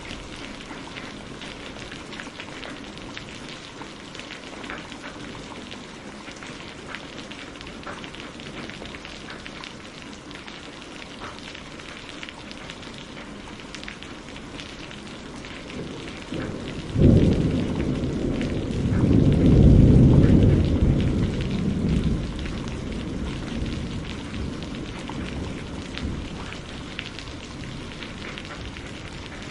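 Steady rain pattering, with many small drops ticking, as heard from inside a greenhouse. About two-thirds of the way through, a thunderclap cracks and rolls into a deep rumble for several seconds, then fades back under the rain.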